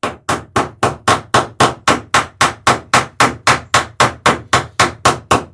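Hammer peening a rivet while riveting a dory's planking, a fast even run of sharp taps at about five a second.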